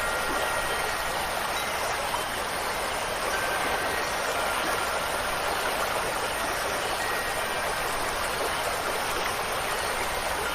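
Steady rushing water, an even hiss with no change in level.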